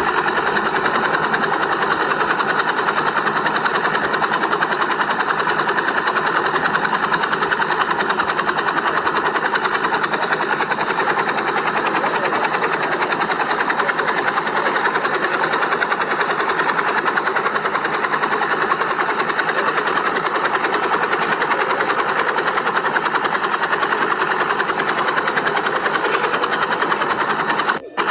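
Steady, unchanging whir of a small remote-control helicopter's electric motors and rotors, with a brief break shortly before the end.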